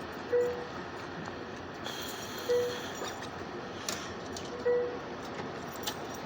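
Steady running noise of a passenger train at a station, with a bell giving a short ding about every two seconds, three times here. A brief hiss and a few faint clicks come in the middle.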